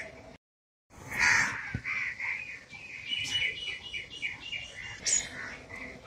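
Small songbirds chirping in a guava tree: a brief call, a gap of silence about half a second in, then runs of short repeated chirps from about three to five seconds in and a sharp high note near the end.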